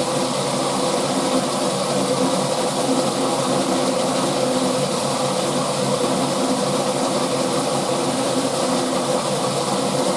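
Drum-type washing machine running: the turning drum and motor give a steady hum over an even rushing noise.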